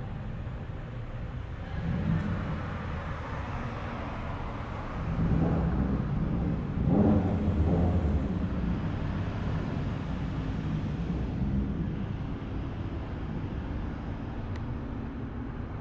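Car engines running as vehicles drive slowly past, the loudest pass coming about five to eight seconds in before fading.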